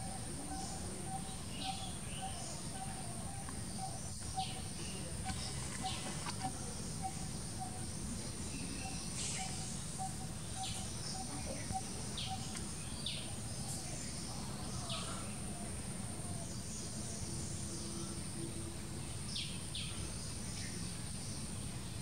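Outdoor bird chorus: a bird repeating a short, mid-pitched note about twice a second for the first half, with scattered short high chirps from other birds throughout, over a low rumble and a constant high whine.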